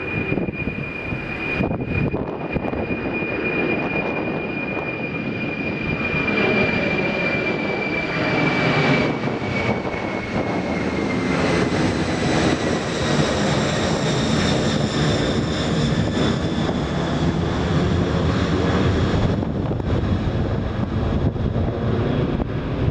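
Jet airliner engines running close by: a steady rush with a high whine that slides lower as the aircraft passes.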